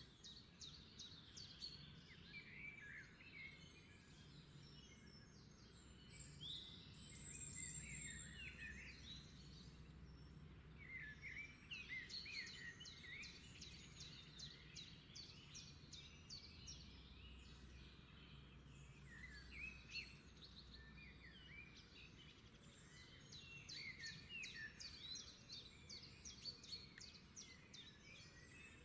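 Faint birdsong: many short chirps and rapid trills, coming and going in bouts, over a faint low hum.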